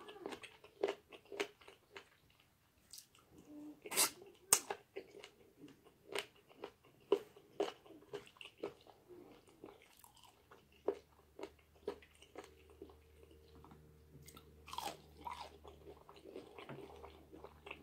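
Close-miked open-mouth chewing of fried chicken: irregular wet lip smacks and mouth clicks with the crunch of breading, the two sharpest clicks about four seconds in.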